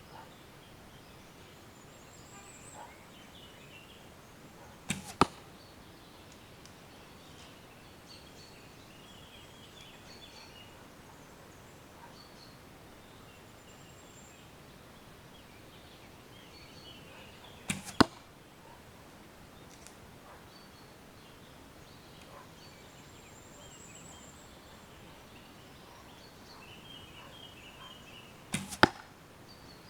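A bow shot three times, about every twelve seconds. Each time a soft release is followed a fraction of a second later by the sharp smack of the arrow hitting the target.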